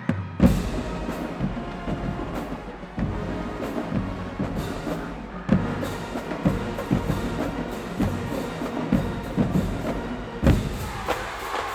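High school marching band playing: held brass notes over a drumline, with sharp drum strokes and heavy bass drum hits throughout.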